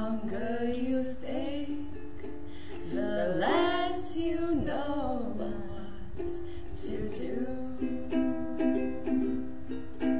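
Ukuleles strummed in a slow song, with a voice singing over the chords in the first half. Later the strummed chords stand out more on their own.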